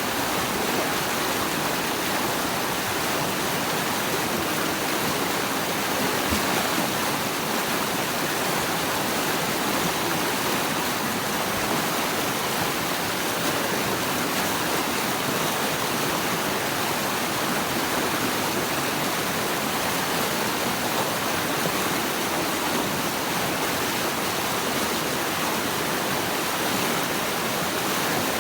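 Steady rushing of flowing water, an even hiss with no swells or breaks.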